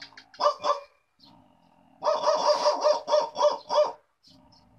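A man imitating a dog barking with his voice: two quick barks, then, after a short pause, a rapid run of about eight barks.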